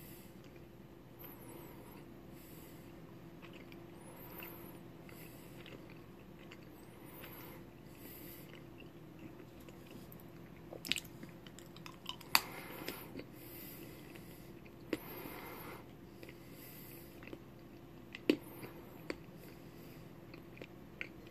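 A person biting and chewing a wax crayon, with soft breathing every second or two and a few sharp crunching clicks between about ten and nineteen seconds in.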